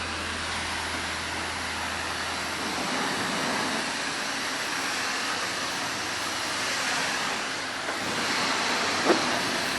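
Self-serve car wash's high-pressure spray wand spraying onto a car, a steady hiss. A low hum underneath stops about three seconds in.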